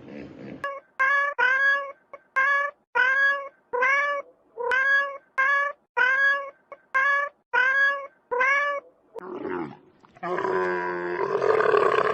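An animal calling over and over: about a dozen short, high calls, each rising and falling in pitch, a little more than one a second. Near the end a louder, lower, rough call starts.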